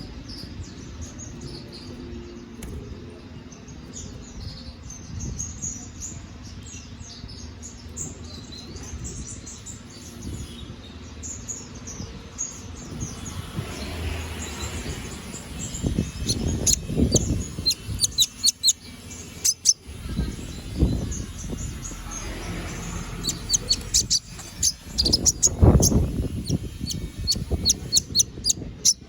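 Domestic canary singing a long, lively song of rapid chirps and trills, busiest in the second half, with a few low thumps.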